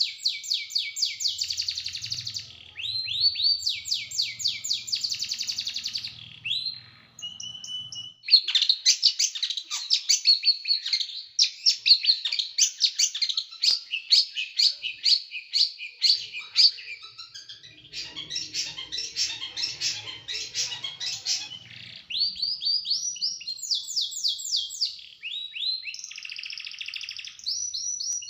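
Small songbird singing in fast rapid-fire trains of sharp, quick falling notes, phrase after phrase with brief pauses. This is the dense 'tembakan' (shooting) song used as a masteran tutor recording for training caged songbirds.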